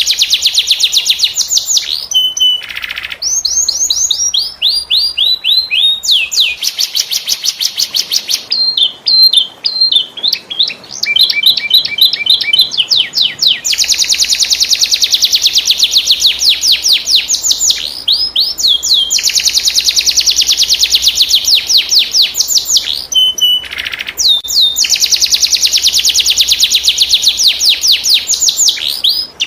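Domestic canary singing long, fast rolling trills of rapid, high, downward-sweeping notes, with a few brief breaks where the phrase changes to slower or lower notes.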